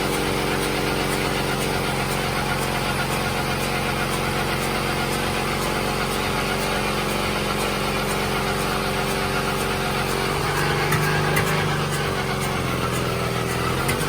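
Engine of a 1940 Caterpillar D4 7J dozer running steadily. About ten seconds in, its pitch and note change.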